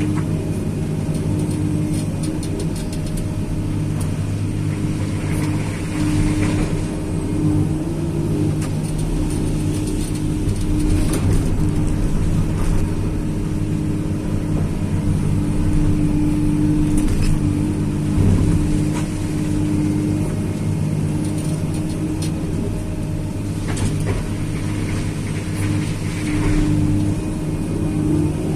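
Tracked excavator's diesel engine running steadily at working revs, with a steady tone that fades in and out and occasional short knocks and scrapes from the machine at work.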